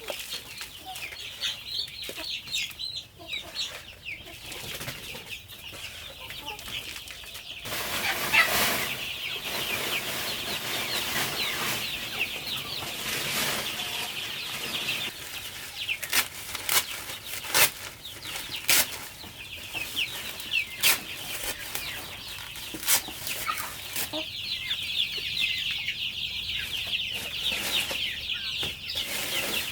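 A flock of chickens peeping and clucking, a dense mass of many short high calls. In the middle come a stretch of rustling or wing flapping and then a run of sharp knocks.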